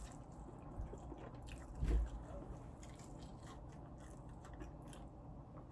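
Faint close-up chewing and crunching of fried chicken wings, with small clicks and one soft thump about two seconds in.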